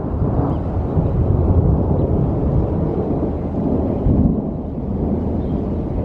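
Thunder from a supercell thunderstorm, a low rolling rumble that swells and eases without a sharp crack.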